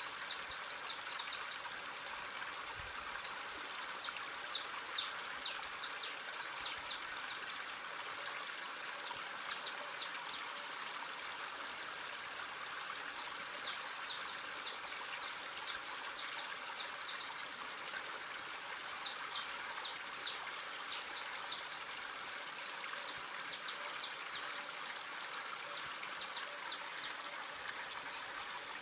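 Birds chirping rapidly: many short, high, falling chirps, several a second with brief pauses, over the steady rush of a running stream.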